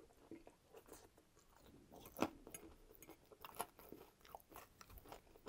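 Close-miked chewing of a forkful of Coney meat sauce: soft, wet mouth sounds with scattered sharp clicks, the loudest about two seconds in.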